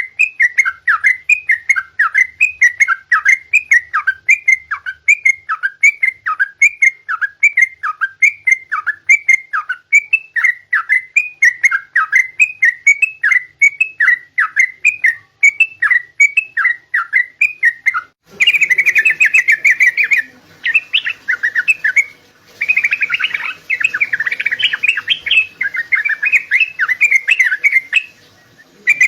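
Yellow-vented bulbul (trucukan) singing: a long run of short, repeated whistled phrases, about two a second. About two-thirds of the way in it switches to a faster, denser chattering song broken by short pauses.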